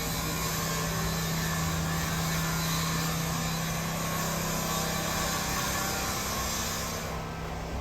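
Construction machinery running steadily: a low motor hum under a broad hiss, the hiss dropping away about seven seconds in.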